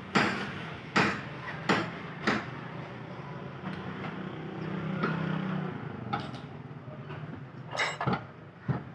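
Sharp metal knocks from tools working the front brake disc and hub assembly loose: four strikes in the first couple of seconds and a few more near the end, with a low hum in between.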